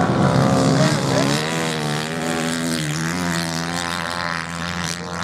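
Racing motorcycle engines running on the sand, their note wavering up and down in pitch as the bikes rev.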